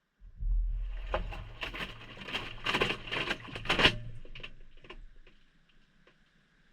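Maytag front-loading washer's drum turning on a delicate cycle, heard from inside the drum: a low motor hum under wet laundry tumbling and water sloshing and pattering. It runs for about four seconds, then the drum stops and the sound dies away.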